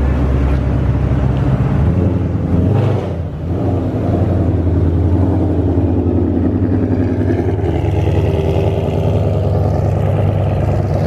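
Car engine running close by with a steady low note, which shifts about two seconds in, followed by a brief dip in loudness near three seconds.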